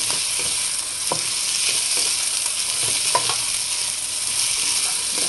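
Chicken feet frying in hot oil in a nonstick pan, sizzling steadily while a spatula stirs and turns them. The spatula knocks against the pan a couple of times.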